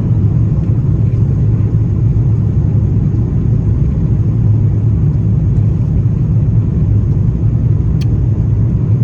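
Steady low rumble of an Airbus A350-900's Rolls-Royce Trent XWB engines and rushing air, heard inside the passenger cabin, with one short click about eight seconds in.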